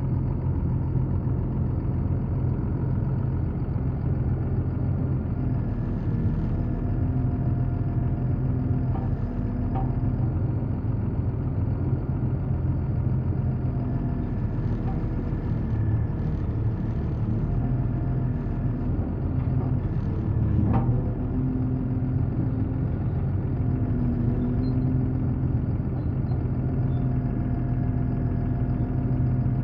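A heavy engine idling steadily with a low drone. Fainter higher tones come and go over it, and there is a single sharp click about 21 seconds in.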